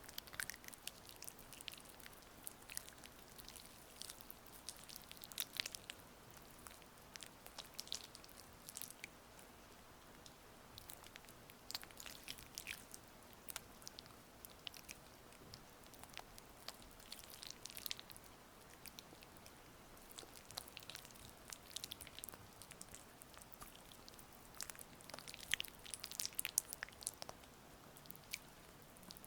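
Wet, sticky sounds of oiled hands massaging a face close to the microphone, coming in irregular clusters of soft crackles, over a faint steady rain sound.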